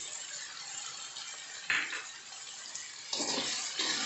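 Spice paste with tomatoes frying in a wok, a steady sizzle, stirred with a metal spatula that clatters against the wok once about halfway through. The sizzling gets louder in two steps near the end.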